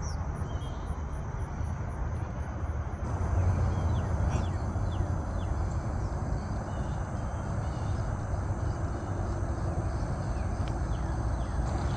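Outdoor ambience: a steady low rumble and rustle, with a few short, faint bird chirps.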